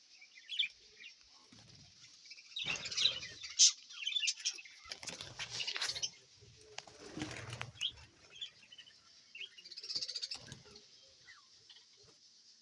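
A colony of budgerigars chirping and chattering, with four short bursts of wing flapping.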